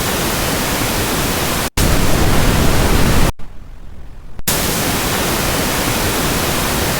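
Synthesized noise from a white noise app, switched between sounds with abrupt cuts: an even hiss, then a louder, deeper rushing noise for about a second and a half, a brief quieter stretch, then the even hiss again.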